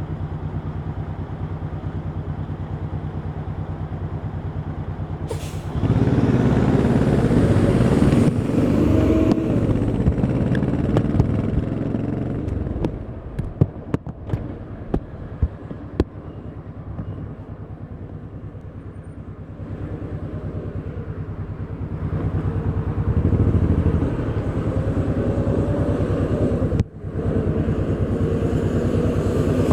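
1100cc V-twin motorcycle engine under way. For the first few seconds it runs with a steady low note, then it opens up and pulls hard about six seconds in. It eases off with a handful of sharp pops, then rises again, with a brief sudden dip near the end before the revs climb.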